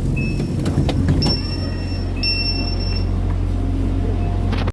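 Passenger train running, a steady low rumble with a few clicks. Three brief high-pitched tones sound in the first three seconds.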